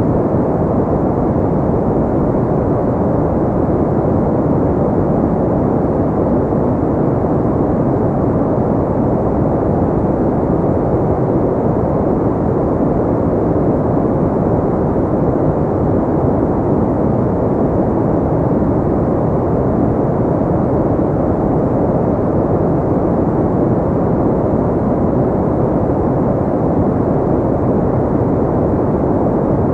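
Pink noise: a steady, unchanging rushing hiss with its weight in the lows and mids and little treble.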